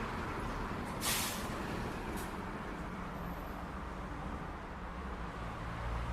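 City street traffic: a steady low rumble of vehicles, broken about a second in by a short, loud hiss and a fainter, shorter hiss about a second later.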